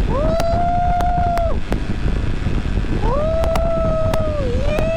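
A woman's voice humming or singing three long held notes at one steady pitch, each sliding up into the note and dropping away at the end, over the steady rumble of the motorcycle and wind on the microphone.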